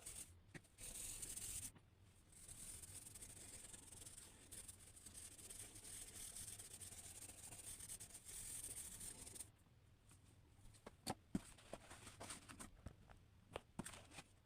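Drawing strokes scratching on paper, faint, in long continuous stretches with a couple of brief breaks. After about nine seconds the scratching stops and a few light taps and clicks follow.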